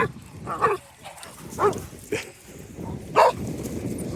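Dogs barking at play: a handful of short, separate barks, the loudest about three seconds in.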